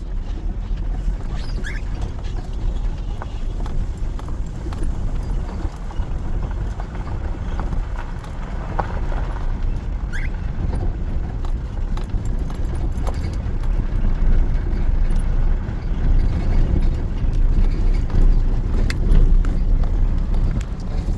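Steady low rumbling road noise of a vehicle on the move, growing a little louder in the second half, with scattered clicks and rattles and three short rising chirps.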